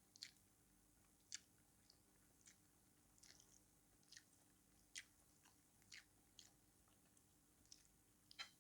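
Faint close-miked chewing: soft wet mouth clicks and smacks at an uneven pace, about one or two a second.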